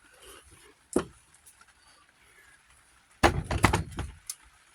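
Metal tractor parts and hand tools being handled: a sharp knock about a second in, then a quick run of loud clanks and rattles near the end.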